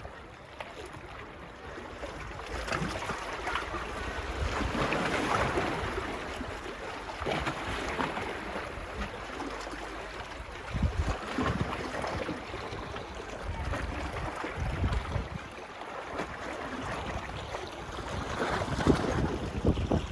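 Small waves washing up on a beach, swelling and fading every few seconds, with wind buffeting the microphone in low thumps.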